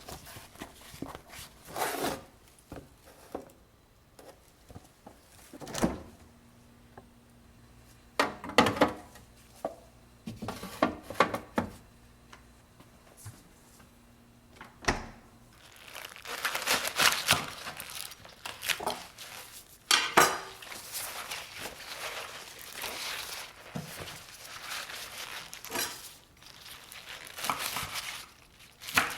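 Kitchen handling sounds: containers and utensils knocked and set down, with plastic crinkling. A faint low hum runs through the middle, and a long stretch of dense rustling comes after it.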